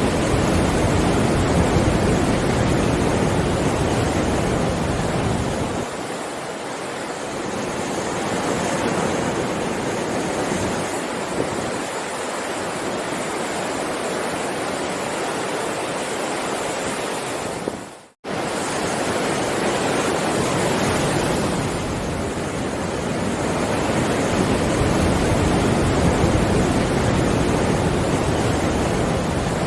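Heavy ocean waves surging and breaking in a continuous rush, swelling and easing every several seconds. About two-thirds of the way through the sound drops out for an instant, like an edit in the recording.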